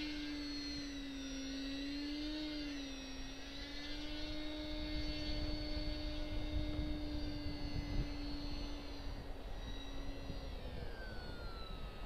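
Parkzone VisionAire RC plane's brushless electric motor and propeller whining steadily. Its pitch wavers as the throttle changes and dips near the end. Gusty wind buffets the microphone from about four seconds in.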